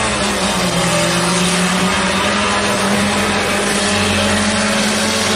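Several old cars' engines revving hard together as the pack pulls away from a standing start at the flag.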